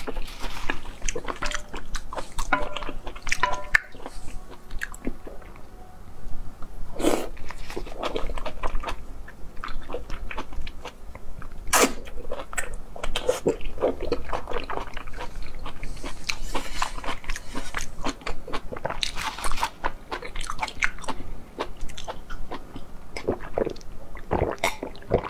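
Close-miked eating sounds: biting and chewing chewy stewed lamb intestine, many short wet clicks and mouth noises. Near the end, gulps from a glass as she drinks.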